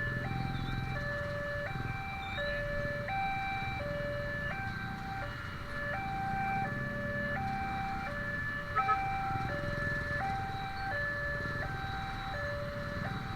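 Railway level-crossing warning alarm sounding, an electronic signal alternating steadily between a higher and a lower tone, each held under a second, warning that a train is approaching. A low rumble runs beneath it, and a short double knock comes about two-thirds of the way through.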